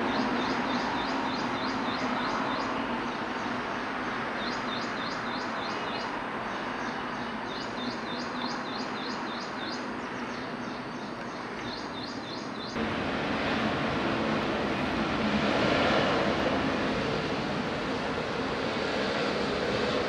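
Steady jet engine noise from a Boeing 777 airliner, with birds chirping in quick repeated runs over it. About two-thirds of the way in, the sound changes abruptly: the chirping stops and the jet noise becomes louder, swelling briefly a few seconds later.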